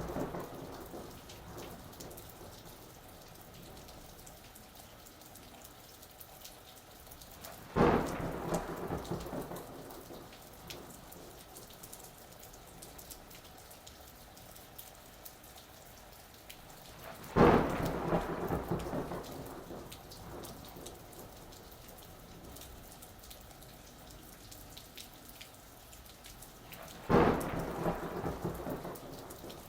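Steady rain falling, with fine pattering drops. Thunder cracks sharply three times, about every ten seconds, each clap rumbling away over a couple of seconds.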